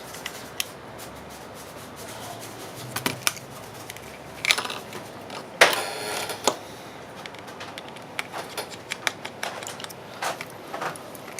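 Irregular clicks and clatters of small hard objects being picked up and set down, as in rummaging for parts. The loudest clatter comes about five and a half seconds in.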